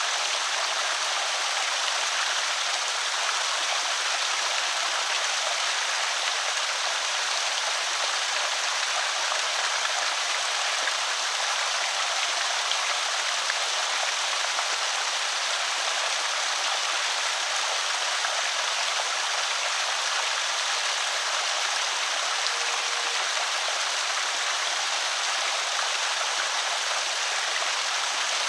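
Water pouring steadily over a small creek spillway, an even splashing rush with no breaks.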